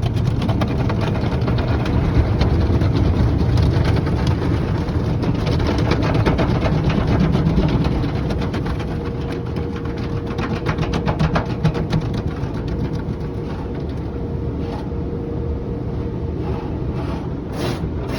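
Automatic tunnel car wash working over a pickup truck, heard from inside the cab: a dense, steady wash of water spray and machinery with a rapid fluttering rhythm. It is louder for the first several seconds and eases a little about halfway, when a steady hum comes in.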